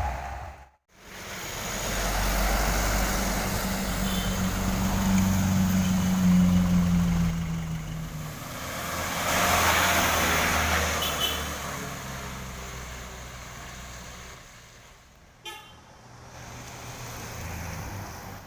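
Truck engine working hard on the road, its note rising for a few seconds, with a rush of tyre and road noise as it passes. There are two short horn toots. The sound drops out briefly about a second in and falls quieter after a click near the end.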